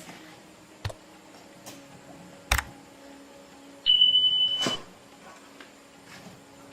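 A single electronic beep at one steady high pitch, lasting just under a second, preceded by a light click and a sharper knock.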